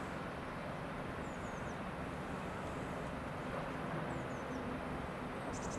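Steady low rumbling noise with a faint hum, with short high bird chirps twice and a fine, rapid insect-like buzz near the end.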